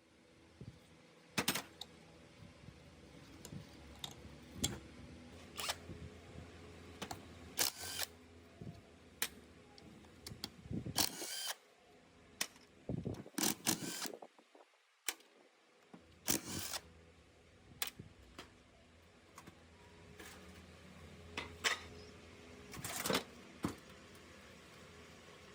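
Irregular clicks, knocks and short scrapes of hand tools and metal parts being handled, spaced a second or two apart over a faint steady hiss.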